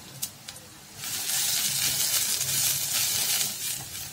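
Ground masala and spice powders sizzling in hot oil in a steel kadhai as they are stirred. The hiss sets in about a second in and eases near the end.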